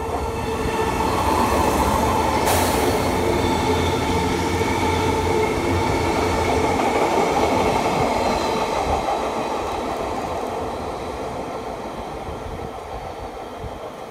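JR 485-series 'Utage' electric multiple unit running through a station: its running noise and a steady hum grow loud about a second in, hold, then fade after about nine seconds as the train draws away.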